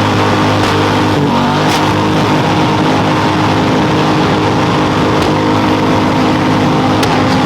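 Racing lawn mower's small engine held at high revs, steady, with a brief dip in pitch about a second in.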